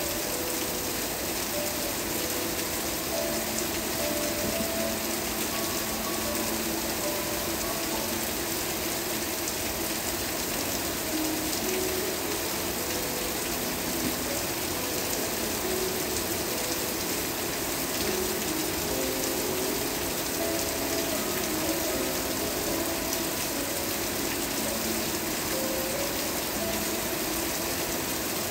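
Steady rain with an even hiss, and a soft, slow melody of held notes playing underneath it.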